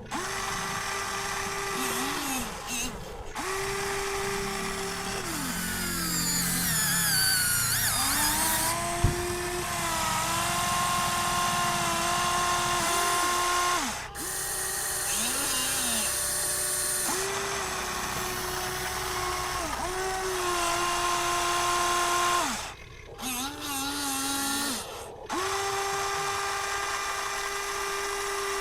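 Electric drive motors and gearboxes of Huina radio-controlled construction models whining in runs of a few seconds, stopping and starting again with short gaps, the pitch sliding as each run starts and stops. A sharp click about nine seconds in.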